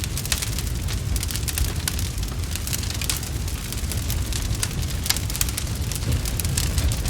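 Wood fire crackling with frequent sharp pops over a steady low rumble.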